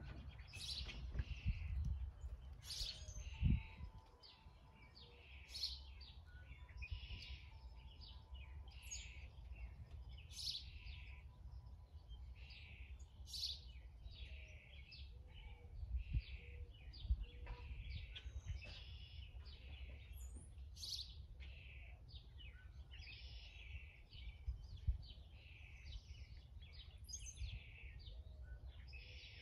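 Songbirds chirping and singing in many short phrases throughout, over a low rumble, with one dull thump about three and a half seconds in.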